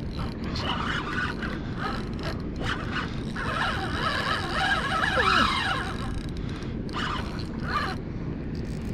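Fishing reel being wound and clicking while a hooked fish is fought, over a steady rumble of wind and water. About halfway through comes a wavering, high-pitched sound with a short falling slide.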